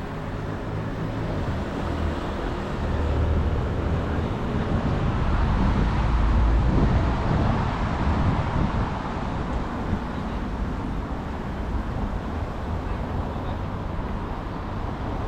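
Street traffic heard from a bicycle: a steady wash of road noise, with a motor vehicle's low rumble swelling and passing about halfway through.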